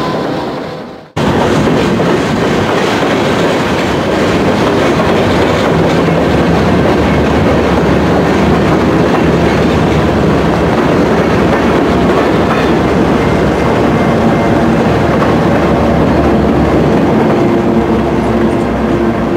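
Freight train passing close by: steel wheels clattering over the rail joints and cars rumbling. A mid-train Norfolk Southern diesel locomotive goes by in the middle of the passage, adding a deeper engine rumble for several seconds. The sound drops out briefly about a second in and cuts straight back.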